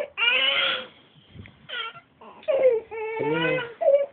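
A baby fussing and crying in several short, wavering wails with brief pauses for breath between them.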